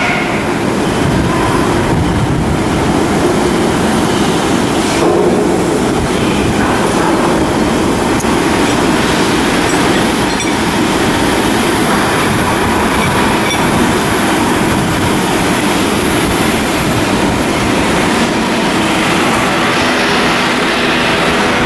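Loud, steady machinery noise of shipyard work, a dense din that keeps going without a break.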